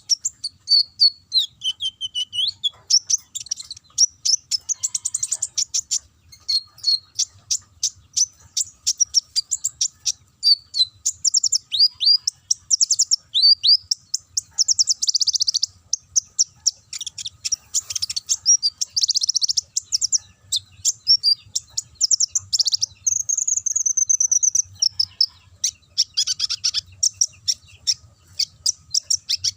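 A konin sunbird singing nonstop: fast, high-pitched chattering trills mixed with short whistled slides, delivering canary-like song phrases.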